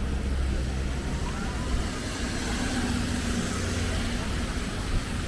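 Road traffic on a city street, a steady low rumble with hiss.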